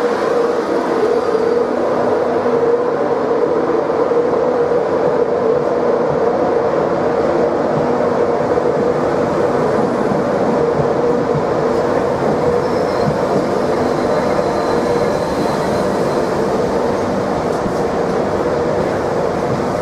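A train running steadily: a continuous rumble with a constant mid-pitched hum that holds at the same level throughout.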